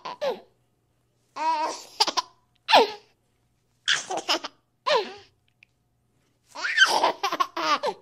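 A baby laughing and giggling in about five short bursts with silence between them, the longest near the end.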